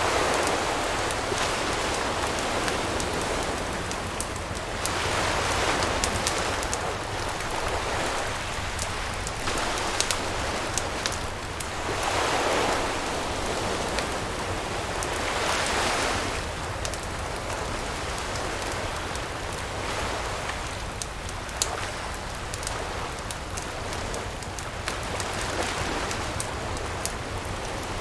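Campfire crackling with many sharp snaps and pops, over surf that swells and washes in every few seconds, most clearly in the first half.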